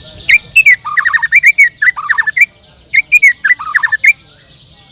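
A songbird singing two loud phrases of rapid, sharp whistled notes that drop in pitch, the second phrase shorter, over a steady chorus of many other birds singing.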